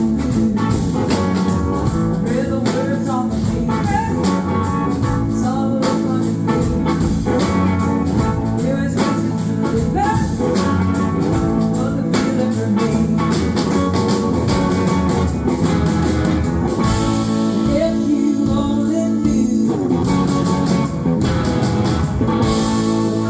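Live blues-rock band playing, with electric guitar, bass, drums and singing, heard as an audience recording.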